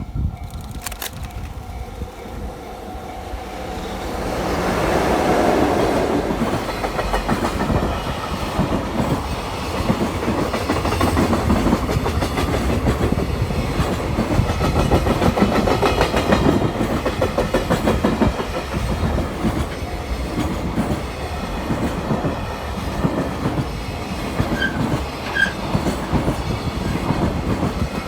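Freight train hauled by an EF66 electric locomotive passing close by: the sound swells about four seconds in as it arrives, then the wagons' wheels clatter over rail joints in a steady rhythm.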